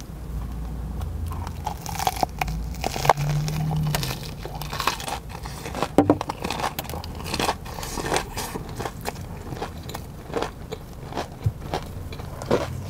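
Close-miked crunching and chewing: repeated crisp crunches as a person bites into and eats a Korean corn dog coated in fried chicken pieces.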